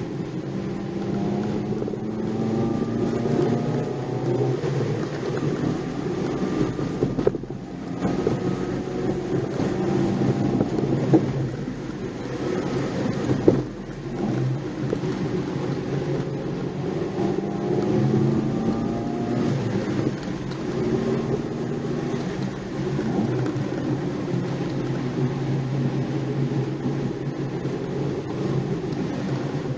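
Nissan March 12SR's small four-cylinder engine heard from inside the car, revving up and easing off again and again while driven briskly, over steady tyre and road noise. The revs drop sharply twice, and a few short knocks come from bumps in the road.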